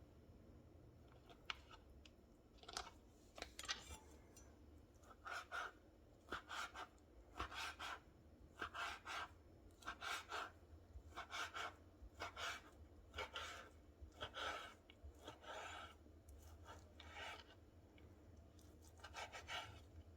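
Repeated short scraping strokes of kitchen food preparation, a little over one a second, with a pause near the end before a few more.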